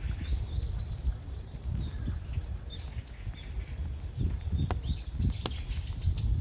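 A small bird calling: two quick runs of short, high, arching notes, one at the start and a louder one near the end, over a steady low rumble.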